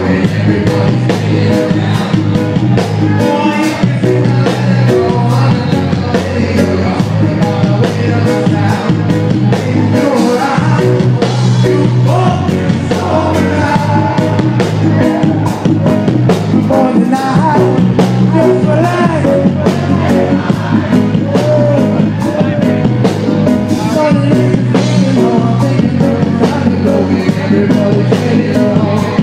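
Live reggae band playing, with a steady beat, bass and a singer's voice over it, recorded from the audience.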